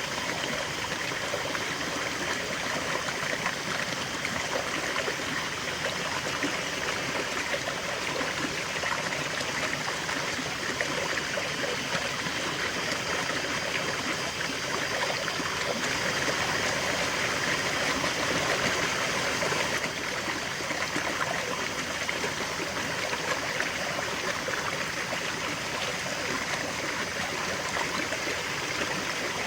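A river flowing, its water splashing and babbling in a steady, even rush.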